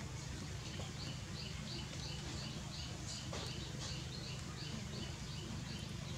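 A small bird chirping in a regular series of short high notes, about two and a half a second, over a steady low background hum.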